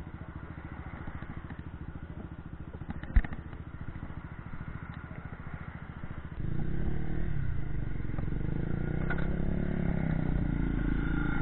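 Motorcycle engine idling with an even pulse, with a sharp clack about three seconds in. A little after six seconds the engine is opened up and the bike pulls away, running louder.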